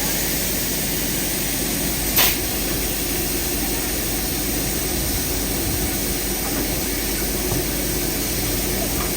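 Steady running noise of a steam-hauled train on the move, heard on board, with a single sharp knock about two seconds in.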